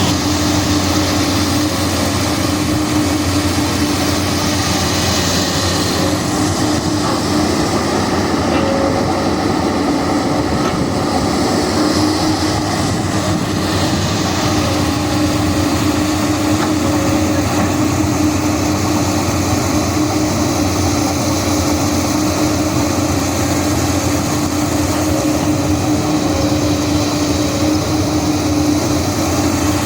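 Komatsu PC200 hydraulic excavator's diesel engine running steadily under work, a continuous drone with a steady tone in it.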